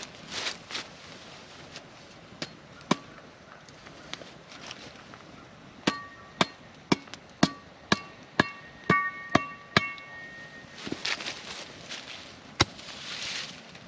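A metal object is struck about nine times in quick succession, roughly two strikes a second, each blow leaving a short bright metallic ring. A few single knocks come earlier, and there is soft rustling near the start and the end.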